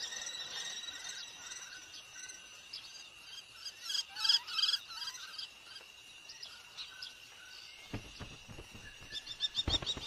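Small birds chirping over a steady high insect drone: a cluster of short chirps about four seconds in, then a quick run of repeated chirps, about five a second, starting near the end, with a couple of low thumps.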